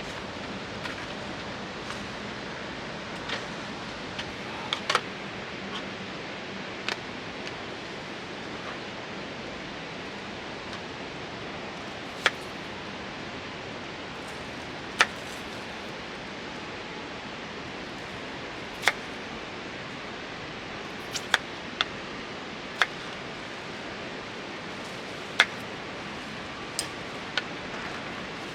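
Wood burning in a small wood stove: a steady hiss with sharp crackles and pops at irregular intervals, about a dozen in all.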